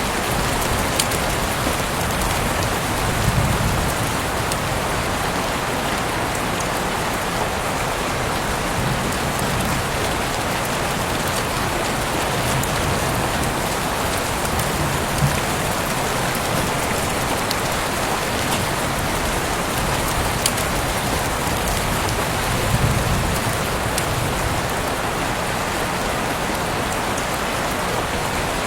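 Heavy rain falling steadily, a dense even hiss, with scattered sharper drop impacts. Twice, a few seconds in and again late on, a brief low swell rises under it.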